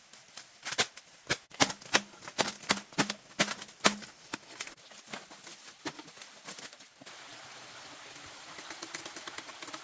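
A quick run of sharp knocks or taps, about two a second, then a steady hiss from about seven seconds in.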